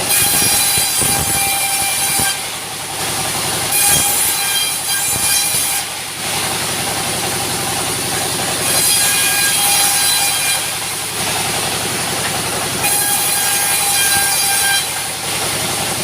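Sawmill saw running with a steady high whine, its cutting noise swelling and easing every few seconds as it works through timber.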